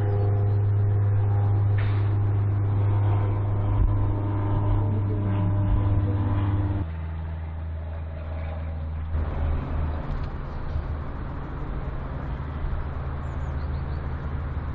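A car engine running steadily at a constant idle-like speed. About seven seconds in it drops to a lower, quieter note and keeps running.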